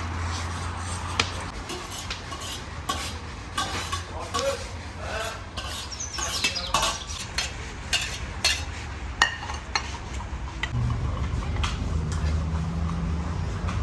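Metal utensils clinking and knocking against pots and dishes in a busy kitchen, with many sharp clicks over a low steady hum.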